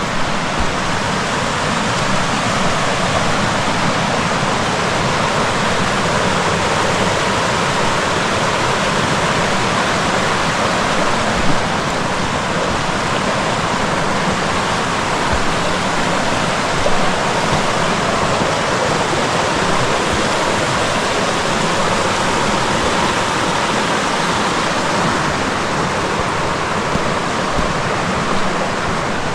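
Rushing water of a creek and waterfall: a loud, steady, even rush with no change in level.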